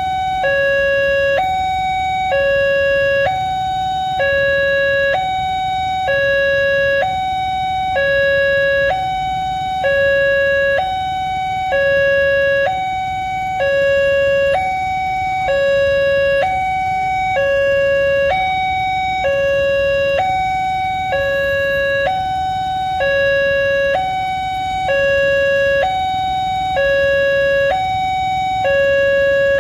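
Railway level-crossing warning alarm sounding a steady two-tone hi-lo pattern, a higher and a lower electronic note alternating, each held just under a second. It warns that a train is approaching and the barriers are down.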